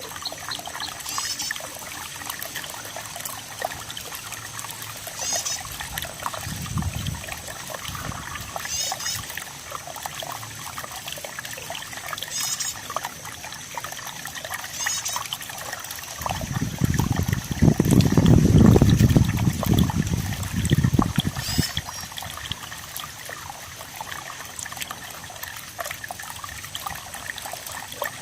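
Water trickling and flowing steadily, with a short high chirp every few seconds. A low rumble swells past the middle for a few seconds and is the loudest thing heard.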